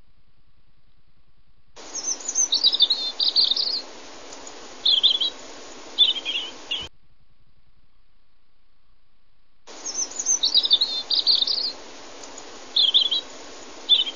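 Songbird song of quick chirps and trills. The same few-second stretch is heard twice, each time starting and cutting off abruptly over a band of hiss.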